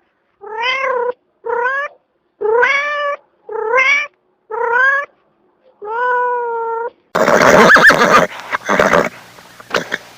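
Domestic cat meowing six times, each call lasting about half a second to a second, with short pauses between them. About seven seconds in, a louder, noisier animal sound with brief pitch sweeps takes over.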